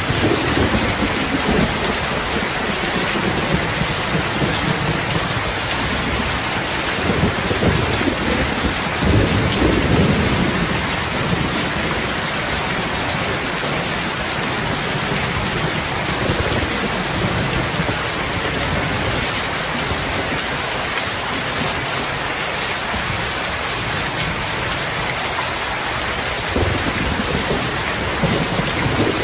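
Heavy, steady rain with low rumbles of thunder, swelling about a third of the way in and again near the end.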